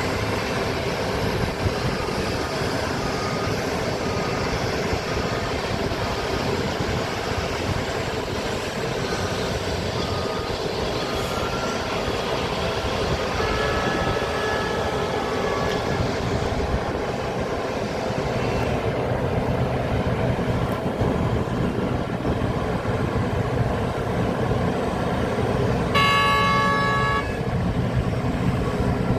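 Heavy diesel engines of large mining excavators and haul trucks running steadily, with a run of short beeps in the first half. A loud vehicle horn sounds once for about a second near the end.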